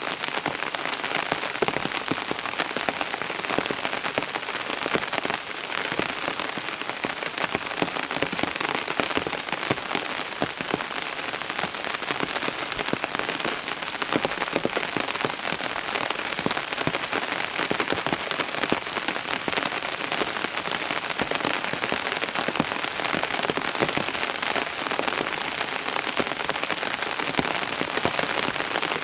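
Steady rain falling, a dense patter of many individual drops hitting a surface.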